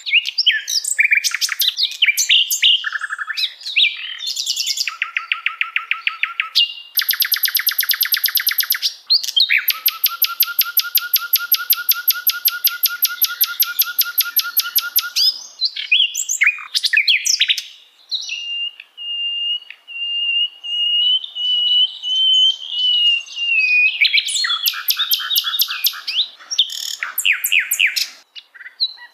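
Songbird song for masteran training: quick chattering phrases, two long runs of fast rattling repeated notes in the middle, then one steady whistle held for about six seconds before more quick phrases.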